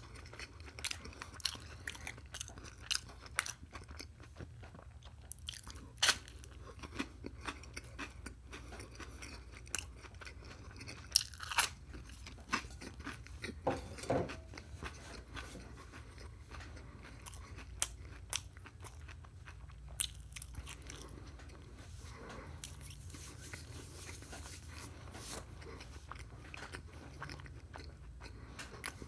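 Close-up mouth sounds of a person chewing crisp toast topped with scrambled egg: wet chewing with sharp crunches scattered irregularly through, the loudest in the first half.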